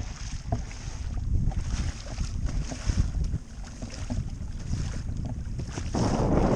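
Wind buffeting the microphone on a kayak out on open water, with irregular small knocks and a gust that swells louder near the end.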